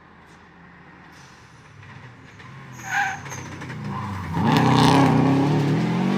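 Subaru Legacy rally car's flat-four boxer engine approaching at racing speed, faint at first, then loud and revving hard from about four and a half seconds in. A short sharp burst sounds about three seconds in.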